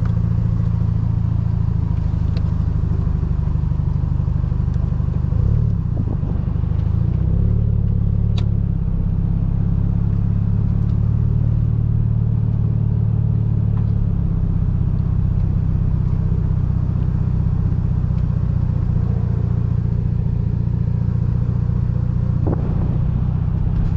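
Mazda RX-7 FC's 13B twin-rotor rotary engine running at low revs as the car creeps along, heard from inside the cabin. The note dips briefly about six seconds in, then settles back.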